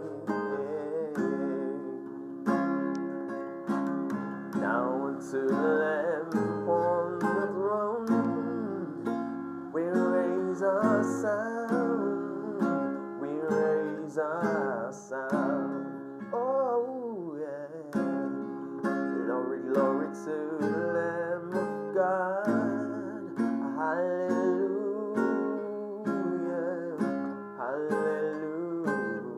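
Acoustic guitar strumming chords, with a voice singing wordless runs that glide up and down over it.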